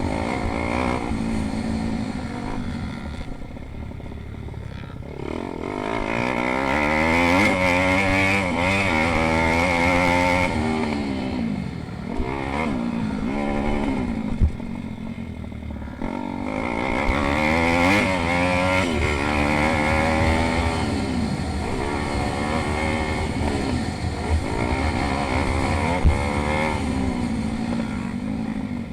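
Several pit bike engines racing, revving up and down through the gears as they pass, with the pitch rising and falling over and over and the loudness swelling and fading as riders go by. A couple of brief sharp knocks stand out above the engines.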